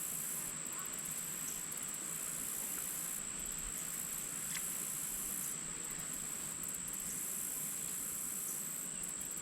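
Insects chirping in a steady, shrill high-pitched chorus, with a faster pulsing trill above it that comes and goes every second or two.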